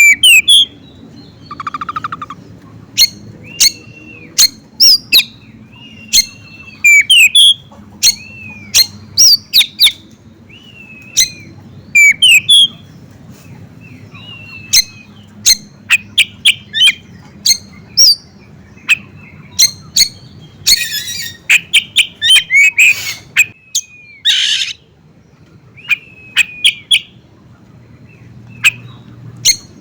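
Caged songbirds chirping and singing: rapid sharp chirps and short whistled notes, with a couple of harsh rasping calls a little past the middle.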